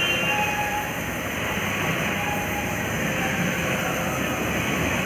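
M-Start automatic car wash machine running, a steady mechanical rush with faint whining tones over it.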